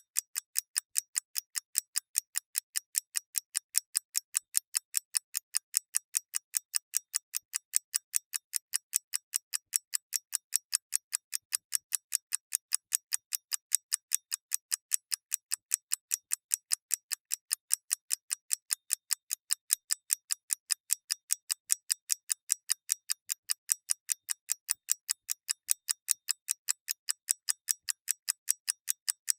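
Clock ticking steadily: sharp, light, evenly spaced ticks, several a second, with no pause or change.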